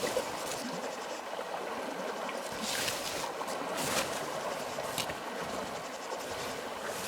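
Steady rushing of flowing water, like a stream, with a few brief light clicks about three, four and five seconds in.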